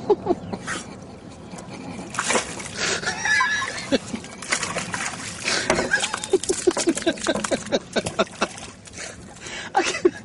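Water splashing and sloshing as a dog paws and noses at a rock in shallow water, with a person laughing in short bursts.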